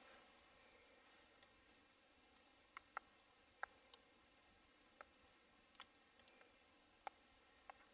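Faint, scattered pops and crackles from a small cooking fire, about eight sharp clicks at irregular intervals over a very quiet background.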